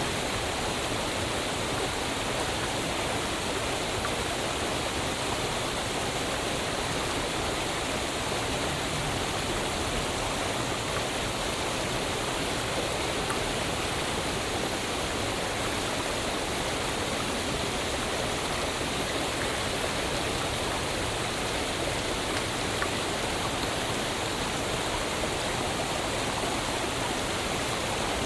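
Waterfall: water pouring and splashing in a steady, even rush with no change.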